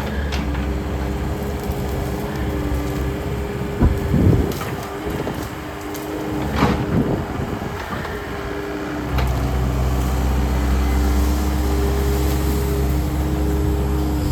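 A Takeuchi compact machine's diesel engine runs under load with a steady hydraulic whine. Wood and vines crack and snap sharply about four seconds in and again near seven seconds. The engine comes back up louder about nine seconds in.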